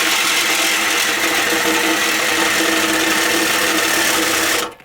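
Power tool cutting through the steel exhaust pipe of a Nissan 240SX, running steadily with a constant high whine over a loud hiss, then cutting off abruptly near the end.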